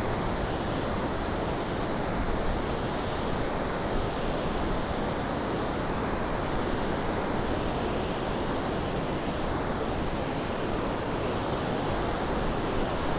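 Ocean surf washing steadily onto the beach, mixed with wind blowing on the microphone.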